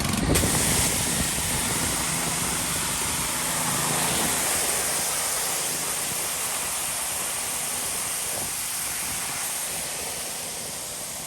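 Gas pressure washer running after a pull start, its small engine humming under a steady, hissing high-pressure water spray that slowly fades.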